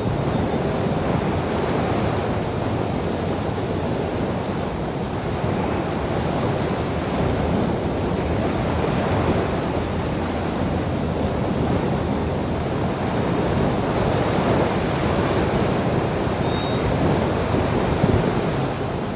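Ocean waves breaking and washing on a shore, a steady rush of surf that swells and eases, with some wind.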